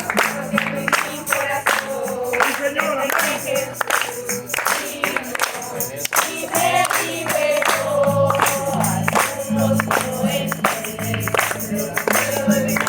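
A group singing a gospel chorus together over a band, with held bass notes and a steady percussive beat.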